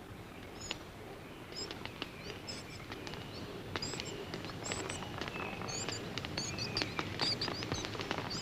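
Rainforest ambience of many short, high chirps and scattered sharp clicks, growing busier and a little louder toward the end.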